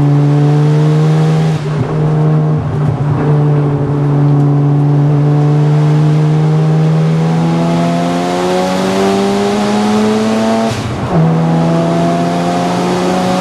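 Mazda RX-7 FD3S's turbocharged rotary engine, heard from inside the cabin, running hard on track with its pitch climbing steadily. About eleven seconds in the pitch drops at an upshift, then starts climbing again.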